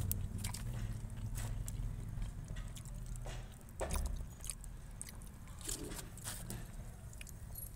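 A small child chewing and biting boiled potato: scattered small clicks and mouth noises, over a low hum that fades about halfway through, with one thump about four seconds in.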